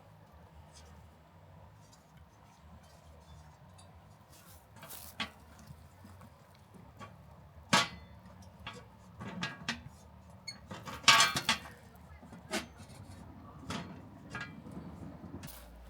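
Scattered light clinks and knocks of small hard objects being handled, with a sharp knock about eight seconds in and a louder clatter about eleven seconds in.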